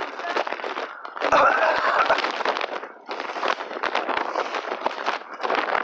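A hiker walking and rustling through wet leaves and brush on a trail: a dense, continuous crackling, with a louder rustle about one and a half seconds in.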